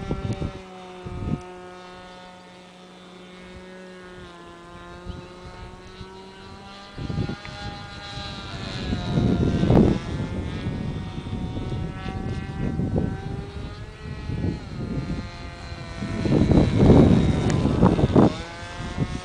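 Model aircraft's 2.5 cc two-stroke glow engine and propeller running at high revs with a high buzzing whine, its pitch sliding up and down as the plane flies past. Gusts of wind rumble on the microphone in two stretches, about seven seconds in and again near the end.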